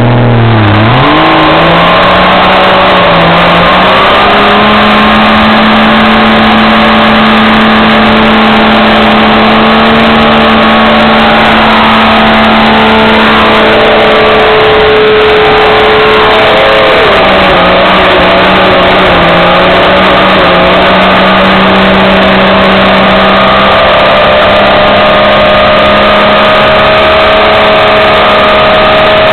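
Loud engine held at high revs during a stationary burnout of a lifted 4x4, its rear tyre spinning on a trailer deck and making smoke. The engine note holds mostly steady, with a brief dip and climb back about a second in and another wobble around halfway through.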